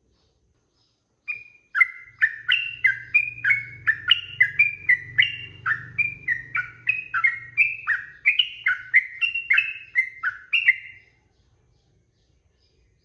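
Sooty-headed bulbul (trucukan) singing a long unbroken run of short, quick whistled notes, between two and three a second, starting about a second in and stopping a couple of seconds before the end.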